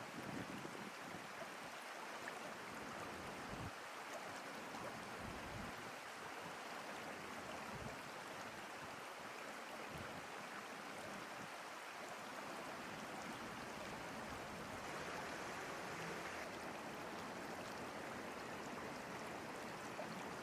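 Steady outdoor rushing noise, even throughout, with a few soft low thumps now and then.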